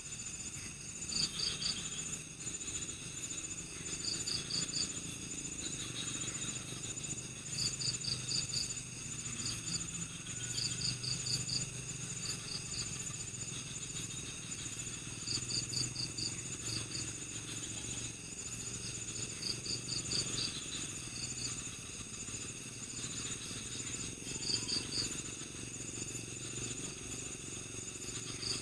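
Night-time forest insect chorus: crickets trilling steadily, with groups of three to five quick chirps every few seconds.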